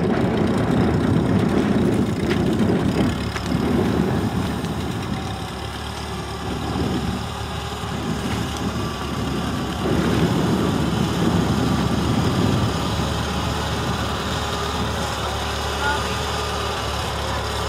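Ford 8N tractor's four-cylinder flathead engine running steadily, swelling louder in the first few seconds and again about ten seconds in.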